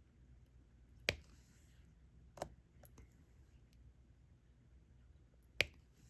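A few sharp, separate clicks of diamond-painting work, a stylus and plastic drills tapping against the canvas and drill tray, the loudest about a second in and another near the end.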